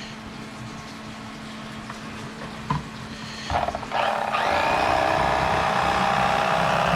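Electric fillet knife running as it slices a fish fillet away from the skin, coming on steadily about four seconds in after a quieter stretch with a single click.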